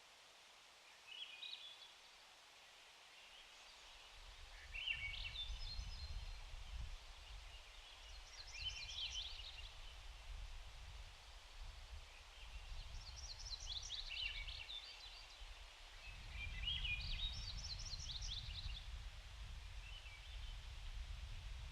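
A bird calling repeatedly in short, high, rapid chattering phrases every two to four seconds, over a faint steady hiss of creek water. Low rumbles of wind on the microphone come and go twice.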